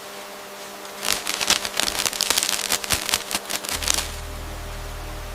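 Dense, rapid dry crackling and rustling for about three seconds, stopping about four seconds in as a steady low hum comes in.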